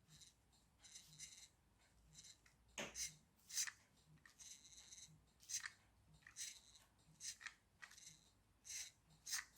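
Faint, scattered clicks and light scrapes of a small plastic toy line-follower car being handled and set down on the bench, about one or two a second.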